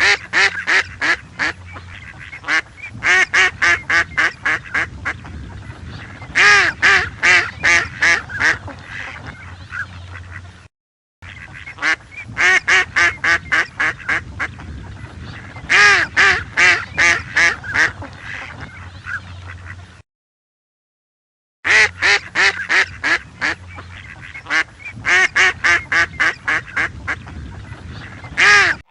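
Ducks quacking in fast, loud runs of calls, in three stretches separated by short silences.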